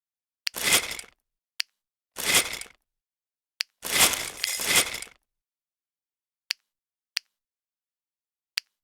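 Pull-back toy race car: three short rattling bursts from its spring-wound gear motor, the last one about a second long, with single sharp clicks before, between and after them.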